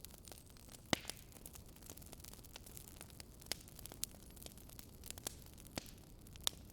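Wood fire crackling: scattered sharp pops and snaps, two of them louder, about a second in and near the end, over a low steady hiss.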